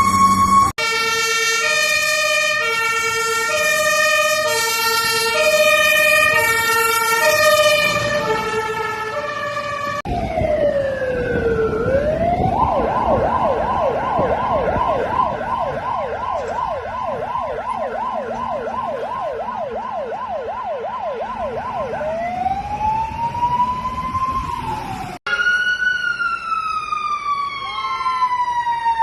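Fire truck sirens in three successive clips. First a siren switching back and forth between two pitches. Then a wail that falls, turns into a fast yelp of about three rising sweeps a second and ends in one slower rise. Last, a long, slowly falling wail.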